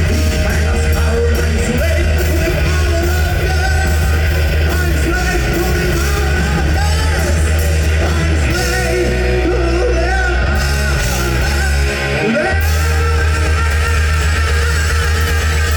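Rock band playing loud, heavy rock with distorted electric guitars, bass and drums, and a singer's voice over the top.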